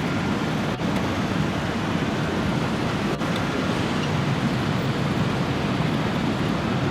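Jet noise from the four turbofan engines of a Boeing 747 Shuttle Carrier Aircraft flying low overhead with the Space Shuttle on its back: a loud, steady, dense rumble.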